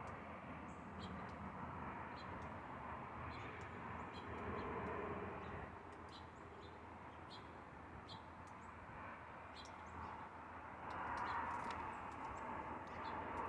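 Small birds chirping: many short, high chirps scattered throughout, over a steady background rumble.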